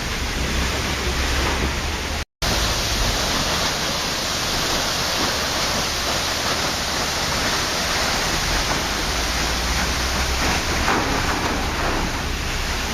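Waterfall: a steady, dense rush of falling water that cuts out for a split second a little over two seconds in.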